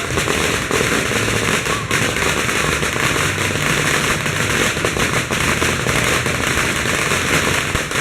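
A long string of firecrackers going off in a dense, unbroken crackle of rapid bangs.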